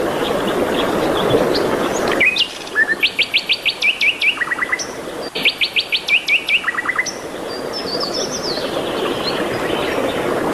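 A songbird singing two quick trilled phrases of sharp down-slurred notes, each phrase a rapid run of about eight notes a second, with a few lower notes after each. A steady low rushing background noise cuts out abruptly as the song begins and slowly returns afterwards.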